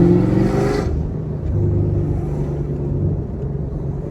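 Chevrolet Camaro SS 1LE's naturally aspirated 6.2-litre V8 pulling under throttle, its note rising in pitch, then cutting back sharply just under a second in and settling to a steady, lower cruising note.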